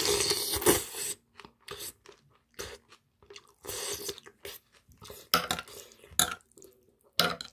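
Close-miked chewing of a mouthful of spicy webfoot octopus with rice, bean sprouts and rice cakes, in irregular bursts that are loudest in the first second, with a few sharp clicks near the end.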